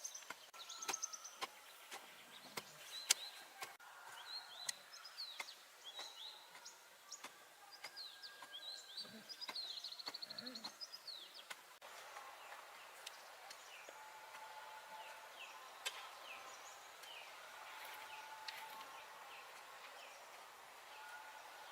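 Small birds chirping and trilling in short, quick calls, with a fast trill about halfway through, over a faint outdoor background with scattered light clicks.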